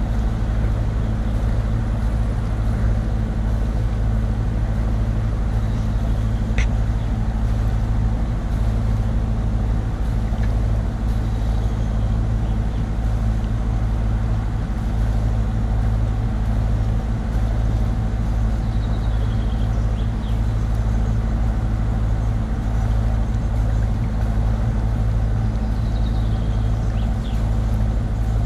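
Sailboat's engine running steadily while the boat motors along a canal, a constant low hum.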